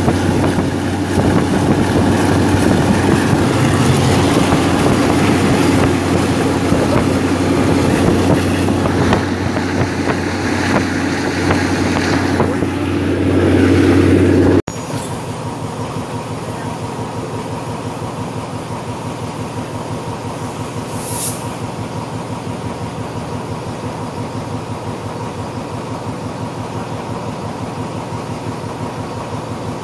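Passenger train heard from an open carriage window: for the first half a loud rush of wind and running noise over a steady low hum. After an abrupt cut it drops to a quieter, steady drone as the train runs slowly, with one brief hiss a few seconds later.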